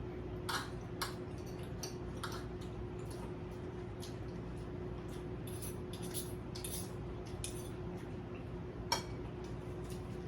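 Spoons and forks clinking and scraping against plates during a meal: scattered light clicks, the sharpest about nine seconds in, over a steady low hum.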